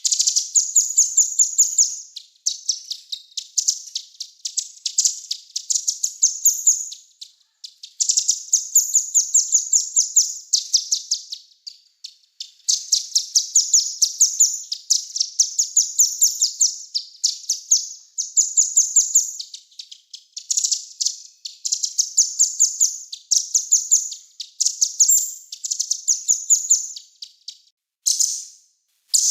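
A small songbird singing a high-pitched, rapid song of sharply repeated notes in phrases of one to three seconds, with short breaks between them.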